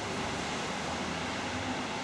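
Steady city din: traffic noise with a low, even hum underneath.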